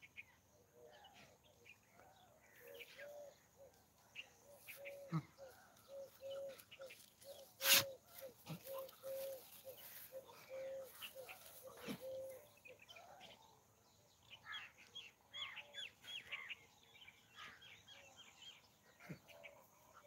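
Faint birdsong: one bird repeats a short low note about twice a second for roughly ten seconds, and higher chirps follow near the end. One sharp knock comes about eight seconds in.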